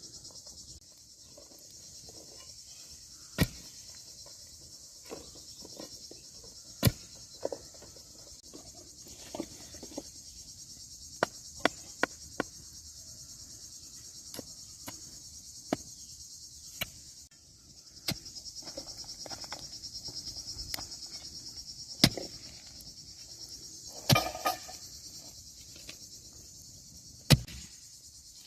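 Steady, high-pitched trilling of an insect chorus, which drops out briefly about two-thirds of the way in and then resumes. Scattered sharp knocks and clicks sound over it, the loudest a short cluster near the end.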